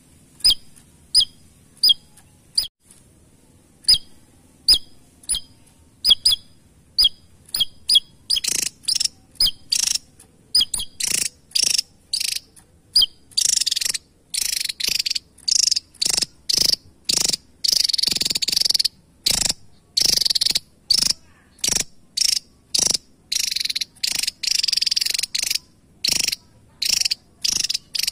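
Javan tesia calling: short, sharp notes repeated about every half second. From about eight seconds in, these give way to harsher buzzy bursts in quick succession, some of them longer.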